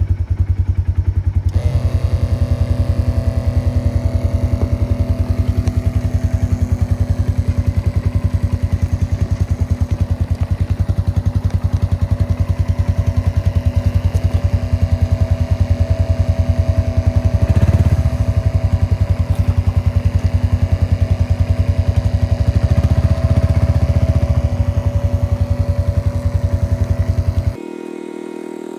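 Polaris Ranger Midsize UTV engine running at a steady, even speed. A steady whine joins in about a second and a half in, and the sound cuts off abruptly near the end.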